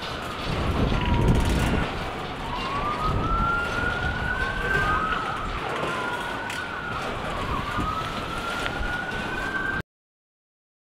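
Autorack freight cars rolling past with a low rumble, while a siren wails over it, its pitch rising and falling again and again. All sound cuts off suddenly near the end.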